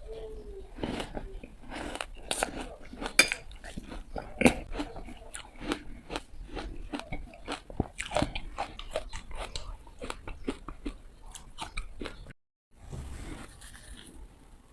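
Bites into hard ice, cracking and crunching in quick, irregular succession. The sound cuts out for a moment near the end, then the crunching resumes.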